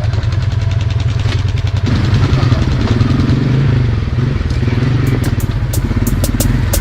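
ATV engine running steadily, with a series of sharp clicks over the last couple of seconds.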